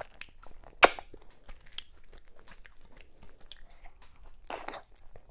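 Close-miked chewing of fufu, okra soup and cow meat: wet mouth sounds and small clicks, with one sharp loud smack about a second in and a longer noisy burst near the end.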